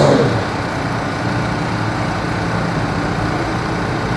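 Motorcycle engines idling as a steady rumble, after a louder engine note drops away at the very start.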